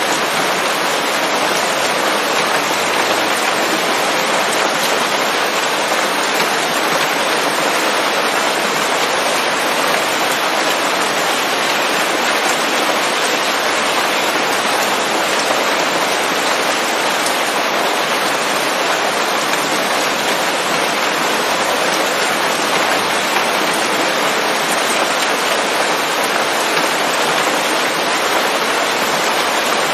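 Steady rain falling on leaves, an even, unbroken hiss of many drops with no thunder.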